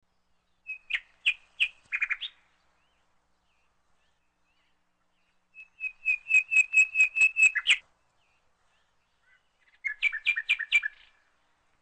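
A songbird singing three short phrases of quick, high chirps and trills, with pauses of a few seconds between them; the middle phrase is the longest, a fast run of notes.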